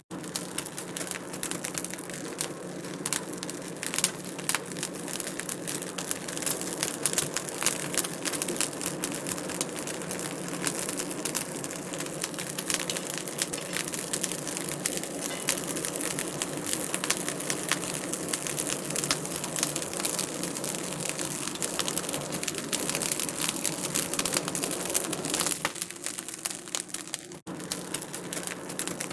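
Wood fire in a fireplace crackling and popping continuously, dense small snaps over a steady low rush of burning, with a momentary break near the end.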